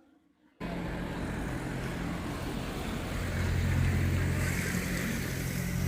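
A motor engine runs steadily under a loud rushing wash of noise, starting abruptly about half a second in.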